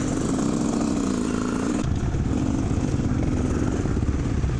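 Dirt bike engines running, their pitch wavering slightly. About two seconds in, the sound changes abruptly to a heavier low rumble.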